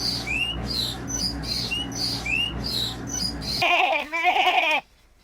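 Small birds chirping, short upswept calls repeated several times a second over a low hum. About three and a half seconds in, the chirping stops and a goat gives one wavering bleat, then the sound drops almost to silence.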